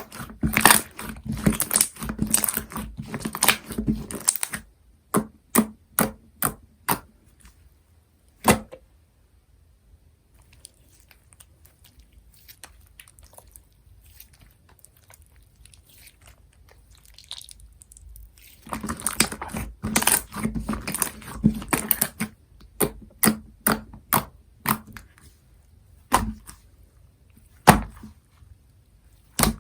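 Translucent slime being squished and poked by hand, giving quick runs of crackling, popping clicks, then single sharp pops. The clicking comes in two busy stretches, at the start and again past the middle, with a quiet pause between.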